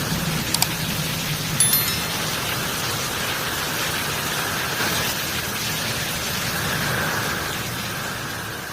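Heavy rain falling steadily, with the last low rumble of thunder dying away in the first couple of seconds. Two brief sharp clicks sound near the start, and the rain fades out near the end.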